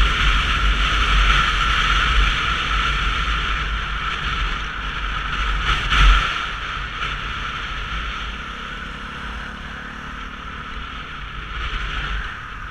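Wind buffeting the microphone and road noise from a Sinnis Terrain 125cc motorcycle on the move, a heavy gusty rumble over a steady hiss. There is one sharp knock about six seconds in, and after it the rumble eases as the bike slows.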